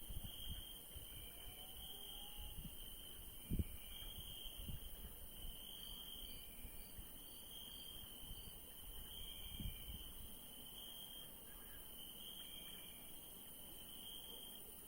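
Crickets chirping at night in repeated trills, with a steady high insect hiss behind them. Two brief soft low thumps, about three and a half seconds in and near ten seconds.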